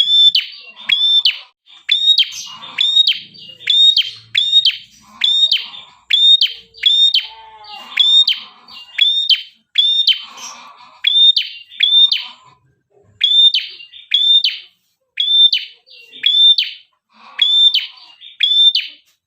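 A red-headed tailorbird (prenjak kepala merah) singing continuously: a long run of sharp, high, downslurred chirps, about two a second, with a few short pauses. Fainter, lower calls sound in between.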